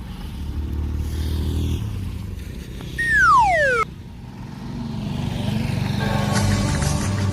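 A vehicle engine running, with a loud falling whistle sound effect about three seconds in that glides down in under a second. Music starts near the end.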